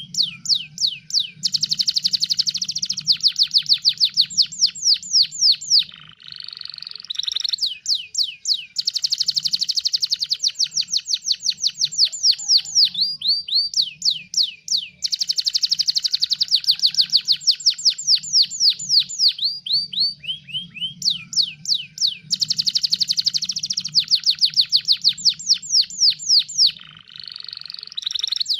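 Domestic canary singing vigorously: long rolling trills of fast, evenly repeated down-slurred notes, each phrase running several seconds with brief pauses and changes of pace between them. A faint steady low hum lies underneath.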